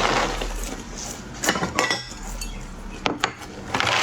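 Tableware clinking: a few sharp knocks with a brief ring, in a cluster about a second and a half in and again about three seconds in.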